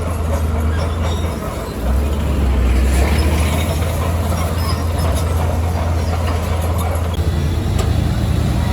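Heavy earthmoving machine's diesel engine running under load, a deep steady drone that dips briefly and comes back louder about two seconds in, with scattered knocks.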